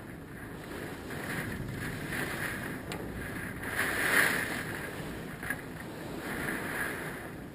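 Hurricane winds gusting over open water, swelling and easing and loudest about four seconds in, with a couple of sharp clicks.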